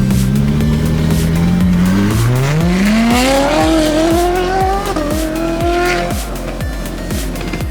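A car accelerating hard: the engine note climbs steadily for about three seconds, dips briefly at an upshift about five seconds in, climbs again and then fades away. Background music with a steady beat runs underneath.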